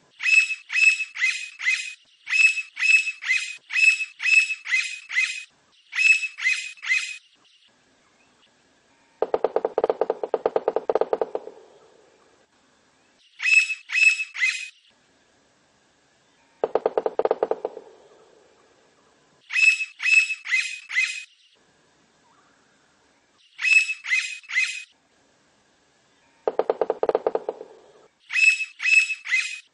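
Blond-crested woodpecker calling: quick runs of four or five short, high, ringing notes, repeated every few seconds. Three times the calls give way to a lower, rapid rattling that lasts one to three seconds.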